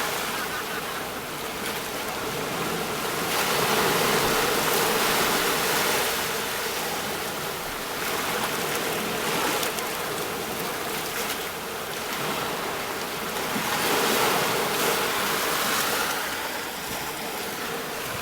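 Sea waves breaking on a shore: a steady rush of surf that swells louder about four seconds in and again about fourteen seconds in.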